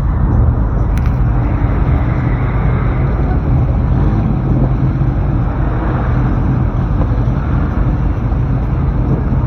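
Loud, steady low rumble of a car engine running.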